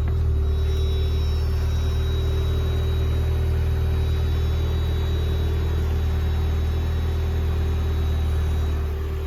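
1991 Mazda Miata's 1.6-litre four-cylinder engine idling steadily as a low, even rumble, warming up after a cold start. It is slightly louder for most of the stretch and eases off about nine seconds in.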